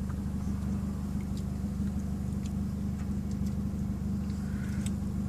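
Car engine idling, a steady low hum heard inside the cabin, with a few faint clicks over it.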